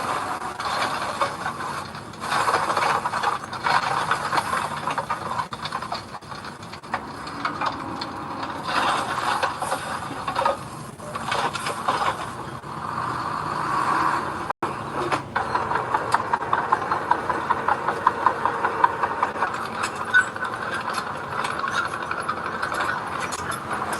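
Construction machinery's engine running, with continuous rattling and scraping of gravel. The sound cuts out for an instant a little past halfway, then carries on the same.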